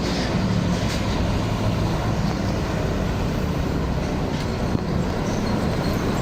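Heavy truck traffic: a steady, loud mix of diesel engine hum and road noise.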